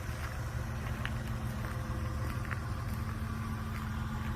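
1998 Mazda MPV's three-litre V6 idling steadily, heard from outside the van at the exhaust's low, even hum.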